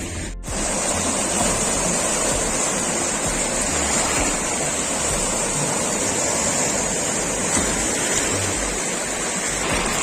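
Steady rushing water, a continuous even wash of noise.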